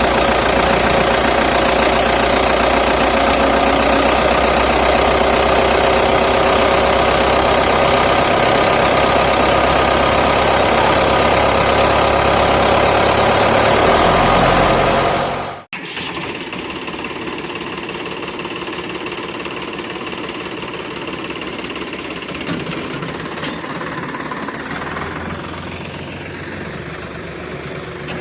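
Steady engine sound running for about fifteen seconds, then cutting off abruptly. A quieter, rougher, rattling engine sound follows.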